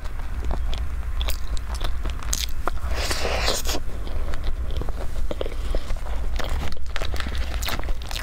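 Close-miked chewing of a mouthful of layered cream cake: wet mouth clicks and smacks, with a brief louder rustle about three seconds in, over a steady low hum.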